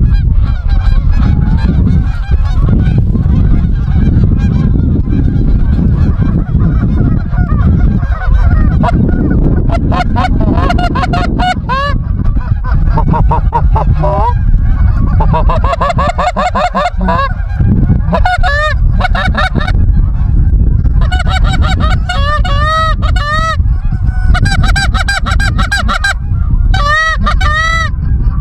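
Geese honking: scattered at first, then growing into rapid, loud runs of honks through the second half, over a steady low rumble.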